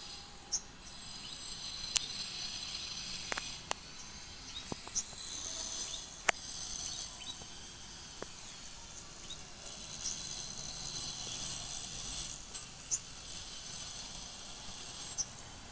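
Small birds giving short, high chirps every few seconds over a steady high hiss, with a few sharp clicks.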